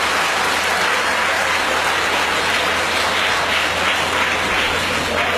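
Audience applauding, a dense, steady clapping that runs unbroken and cuts off abruptly just afterwards.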